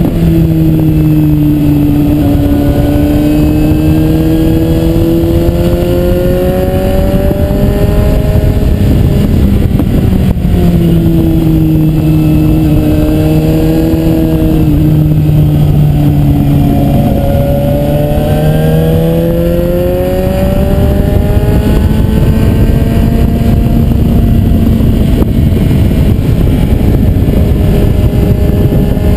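Suzuki GSR 750's inline-four engine running under way at moderate revs, its pitch climbing slowly, dropping back about ten seconds in and again near twenty seconds, then holding fairly steady, over a constant rush of wind and road noise.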